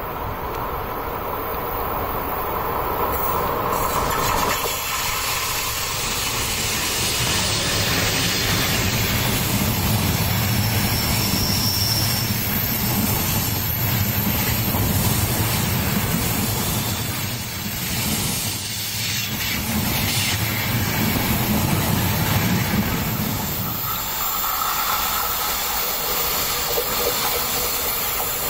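Passenger train passing close by behind a red ÖBB electric locomotive: the wheels rumble and hiss on the rails as the coaches roll past. The low rumble drops away near the end.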